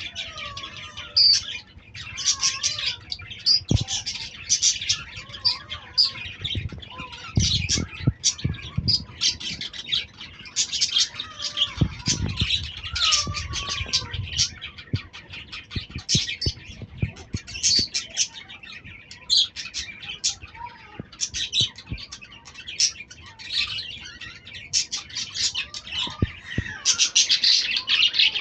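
A group of lovebirds chirping and chattering nonstop in rapid, overlapping high calls, with a few lower squawks and a couple of brief low rumbles.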